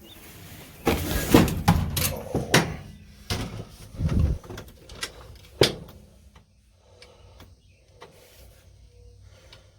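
A person climbing into a caged car's seat: a run of knocks, bumps and rubbing over the first six seconds, then quieter shuffling.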